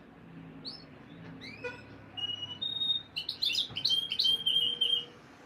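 Canary singing: a few short chirps and upward-sweeping notes, then a louder run of rapid trills and held whistled notes that stops about five seconds in.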